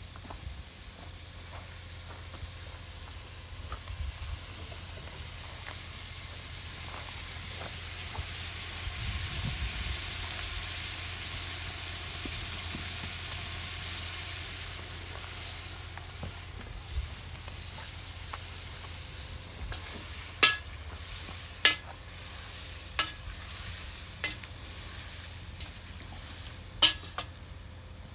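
Chunks of meat and onion sizzling as they fry in a cauldron over a wood fire, stirred with a wooden spoon. The sizzle swells about a third of the way in. Several sharp clicks come in the second half.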